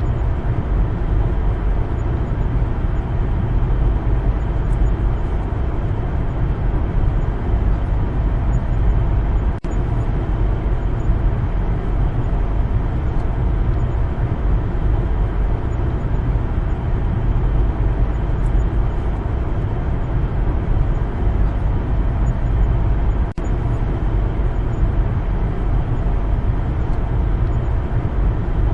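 Car driving along a road: a steady low rumble of engine and tyre noise, dipping very briefly twice.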